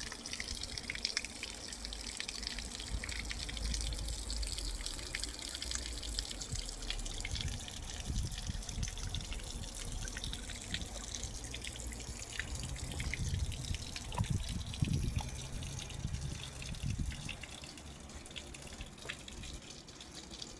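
Water from a small pump-fed pond waterfall splashing and trickling steadily into the pond. A low rumble comes and goes underneath, strongest in the middle.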